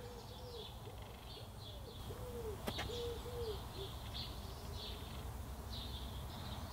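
Birds calling: a run of short, low, arched notes repeated about twice a second for the first few seconds, with higher chirps throughout. A single sharp click comes near the middle.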